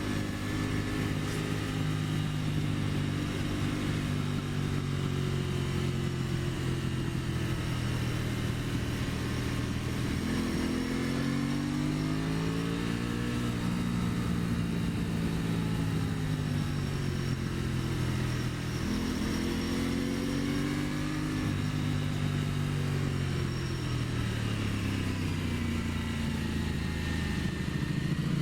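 2023 Aprilia Tuono 660's parallel-twin engine running under way. Its pitch sinks slowly and jumps back up sharply twice, about ten and nineteen seconds in, then climbs again near the end.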